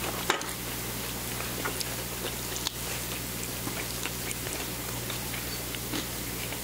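Close-miked chewing and biting on fried chicken: scattered small wet mouth clicks, with two sharper clicks, one just after the start and one nearer the middle. A steady low electrical hum and hiss lies under it.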